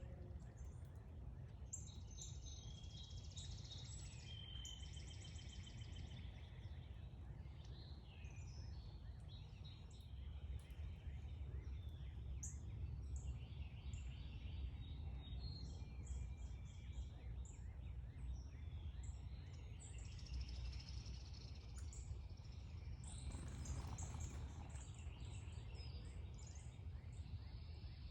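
Several songbirds chirping and calling, with quick trills of rapidly repeated notes a few seconds in, over a steady low background rumble.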